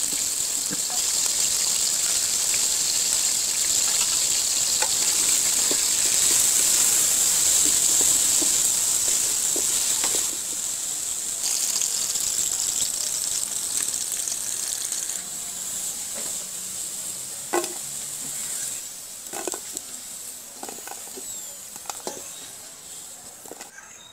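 Potato cubes frying in hot oil in a stainless steel kadai, a steady sizzle that grows quieter about halfway through. A few light clicks and taps come in the later part.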